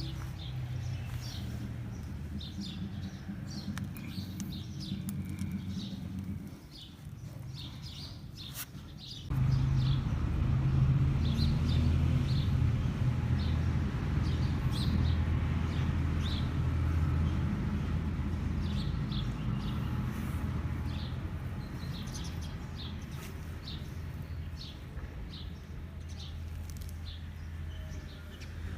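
A steady low motor hum, which drops away about six seconds in and comes back louder about nine seconds in, with birds chirping repeatedly over it.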